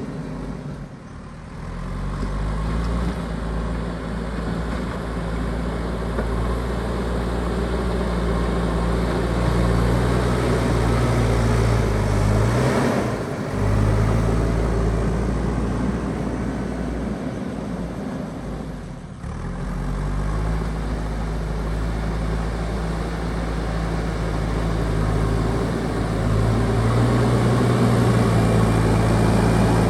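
JCB backhoe loader's diesel engine running while it works, its note shifting up and down, with short dips in the sound about a second, thirteen and nineteen seconds in.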